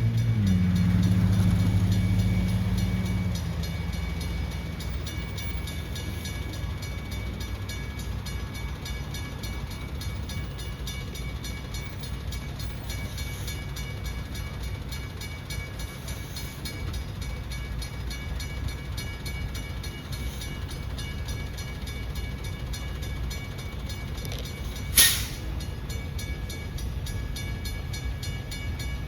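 Freight train running, a steady low rumble of the diesel locomotive and rolling cars. A low engine tone fades away over the first few seconds. There is a single sharp click about 25 seconds in.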